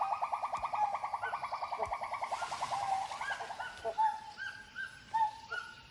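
Forest bird calls: a fast, even trill that drifts slightly down in pitch and stops about three seconds in, then a string of short, upward-flicking call notes.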